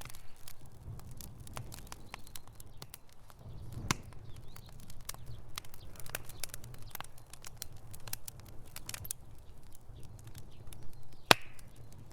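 Wood fire burning in a fireplace: irregular sharp crackles and pops over a low rumble of flames, with a loud pop about four seconds in and the loudest near the end.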